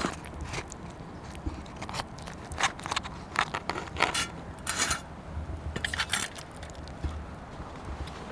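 Large campfire crackling with irregular sharp pops, mixed with scraping sounds, clustered most thickly in the middle of the stretch.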